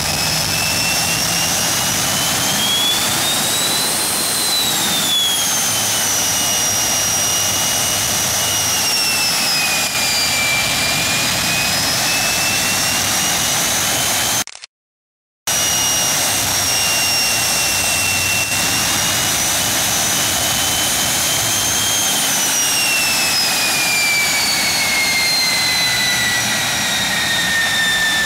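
R11F-300 turbojet engine running loud and steady, its high whine rising about four seconds in, sagging, then falling steadily over the last several seconds. The sound cuts out completely for about a second midway.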